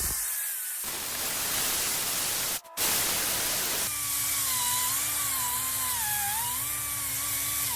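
Handheld rotary power tool scrubbing caked-up residue off the coolant hose neck so the hose can seat. A harsh, hissing scrub with a short pause about two and a half seconds in. From about halfway its motor whine wavers up and down as the load changes, and it cuts off at the end.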